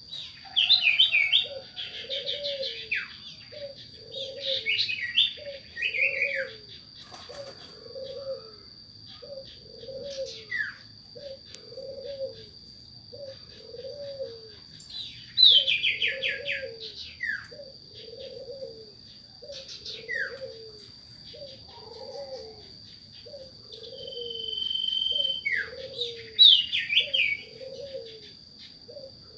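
Sirtu (scops owl) calling a short, low, rising-and-falling hoot over and over, about once a second, the call used as a lure for other birds. Bursts of high, rapid chirps and trills from small birds break in over it near the start, in the middle and near the end, with a steady thin high whine behind.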